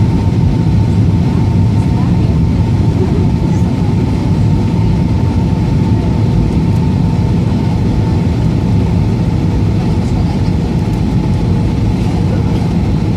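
Steady cabin noise of an Airbus A320 on approach, heard from a window seat: a loud, even rumble of engines and rushing air, with two faint steady hums riding on it.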